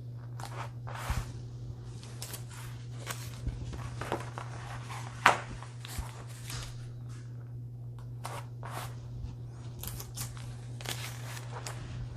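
Tape being pulled and torn and a Mylar stencil being pressed onto poster board: a run of irregular crackles and short rips, the sharpest about five seconds in, over a steady low hum.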